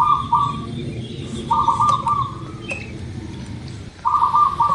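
Zebra dove (perkutut) cooing: short phrases of several quick staccato coos, repeated three times about every two and a half seconds.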